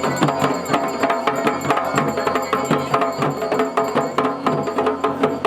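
Traditional Garhwali dhol and damau drumming, a dense rhythmic beat of repeated strikes.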